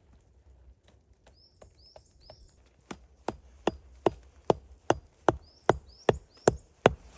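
Wood being chopped with an axe: a steady run of about eleven sharp strokes, roughly two and a half a second, starting about three seconds in. A small bird calls with three short falling chirps before the chopping and three more during it.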